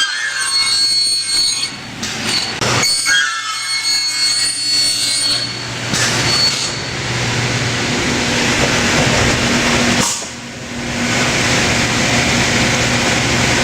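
Scotchman SUP-600 NF upcut circular saw running and cutting non-ferrous metal, a steady metallic noise with high ringing squeals from the blade in the first few seconds. The noise dips briefly about ten seconds in, then carries on.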